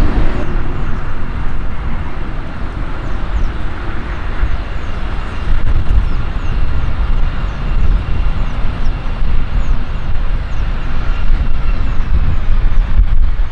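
Jet airliner's engines rumbling as it passes, with a faint steady whine that fades out near the end.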